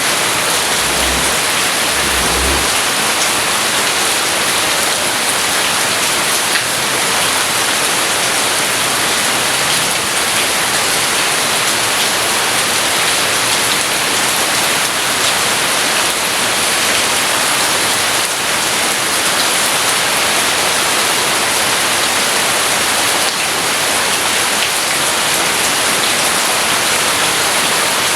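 Steady heavy rain falling in an even, unbroken hiss, with a short low rumble about one to two seconds in.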